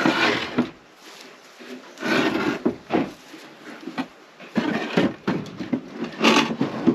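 Wooden beehive boxes knocking and clattering as they are handled and piled up, several sharp clunks spread through.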